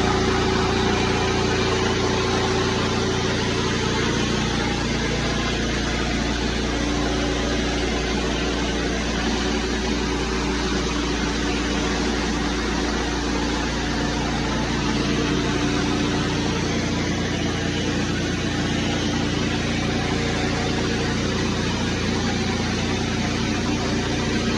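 Small gas engine running steadily with a dense, even hiss over it.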